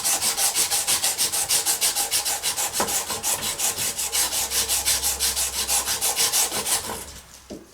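Copper tube end being scrubbed clean with an abrasive before brazing: quick, even back-and-forth rubbing strokes, about four to five a second, that stop near the end.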